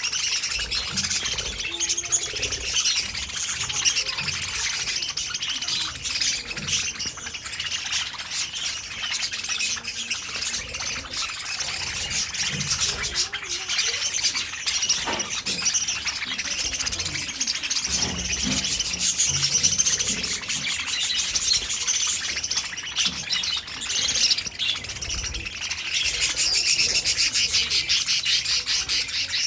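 Budgerigars chirping and warbling in continuous, busy chatter.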